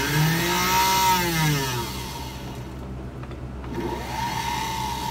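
Singer 221 sewing machine's small electric motor, running free with its belt removed, speeding up and slowing back down under a bakelite foot pedal, then speeding up again near the end: the pedal's variable speed control working.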